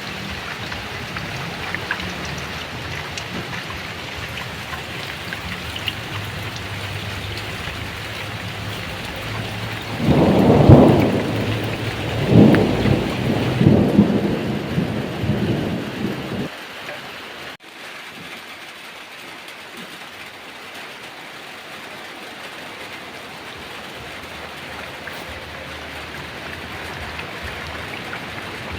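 Heavy rain falling steadily, with a loud thunderclap about ten seconds in that rolls on in several peaks for about six seconds and then cuts off suddenly. The rain carries on a little quieter afterwards.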